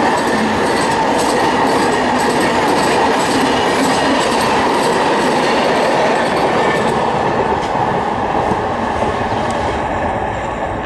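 Passenger train coaches rolling past: a steady rumble and rattle with faint repeated wheel clacks over the rail joints, growing fainter over the last few seconds as the train moves away.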